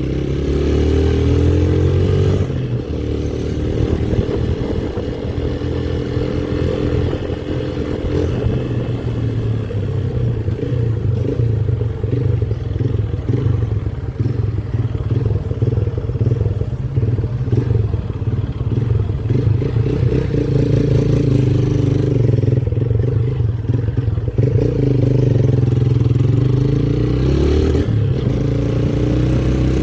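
Motorcycle engine running while riding, over a steady low rumble. Its pitch shifts with the throttle about two seconds in and again near the end.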